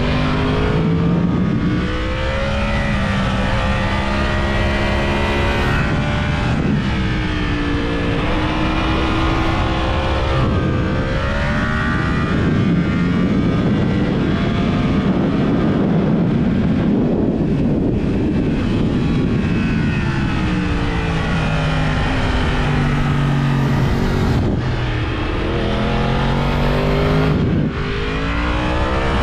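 Yamaha YZF-R1 inline-four with a TSR aftermarket exhaust at full track pace: the engine note climbs and drops repeatedly through gear changes and corners. Through the middle of the stretch a broad rushing noise mostly covers the engine.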